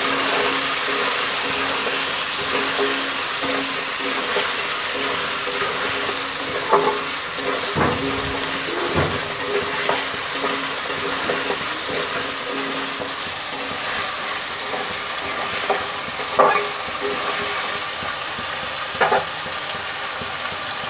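Diced potatoes and sliced onion sizzling steadily in hot oil in a metal kadai while being stirred, with a spatula scraping and knocking against the pan a few times.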